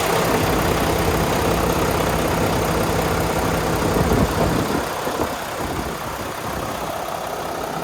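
2012 Mack CHU613 truck's diesel engine idling steadily, turning quieter a little before five seconds in.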